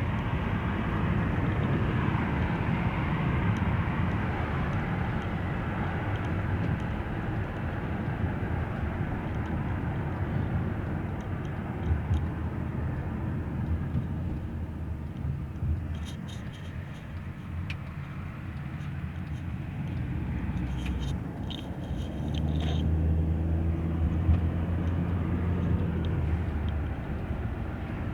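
Wind and road noise in a moving car: a steady rushing with a low rumble. A few faint ticks come about two-thirds of the way through, and a low drone swells near the end.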